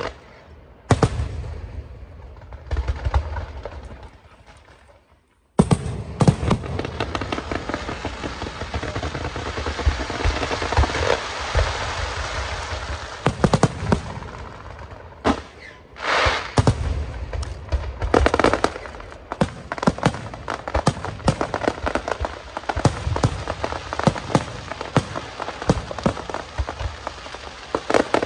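Fireworks going off: a few separate bangs, then after a brief gap a dense, continuous crackle packed with rapid sharp bangs.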